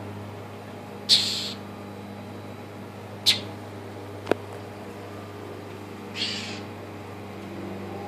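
A bird's harsh, raspy scolding calls, three of them a few seconds apart, each a short rasp that fades quickly. A single sharp click comes a little after the middle, over a steady low hum.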